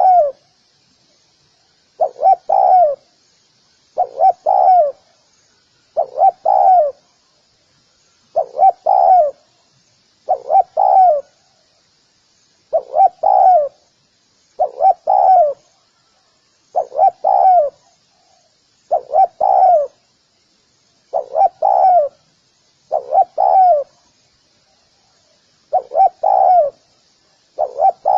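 Spotted dove calling: a phrase of three cooing notes, repeated about every two seconds.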